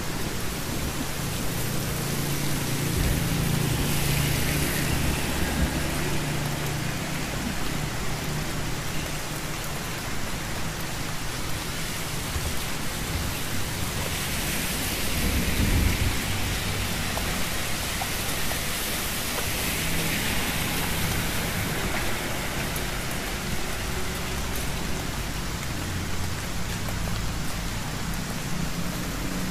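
Steady rain pattering on an umbrella and hissing on a wet street, with a low rumble underneath that swells and peaks about halfway through.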